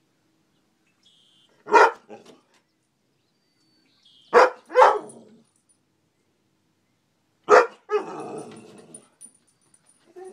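A goldendoodle barking sharply four times: once, then two barks in quick succession, then a last bark that trails off into a ragged, rougher sound for about a second.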